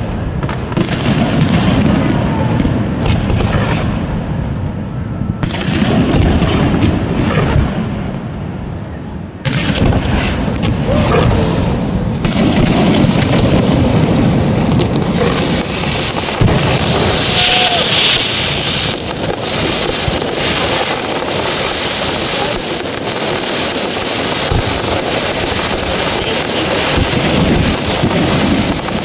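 Fireworks display: many shells bursting and crackling in a dense, continuous barrage, the cracks overlapping without pause.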